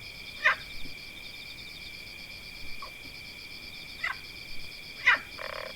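Forest ambience: a steady, high-pitched insect chorus of fast pulsing trills, with short, sharp bird chirps sweeping down in pitch three times, loudest about half a second in and about five seconds in.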